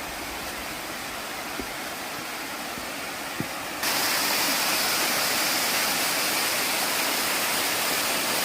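Waterfall, water rushing in a steady wash of noise that turns suddenly louder and brighter about four seconds in.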